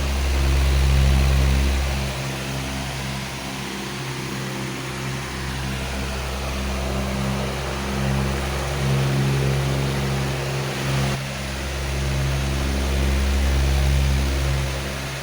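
Powerful electric fan running steadily: a rush of moving air over a low motor hum that swells and eases every few seconds.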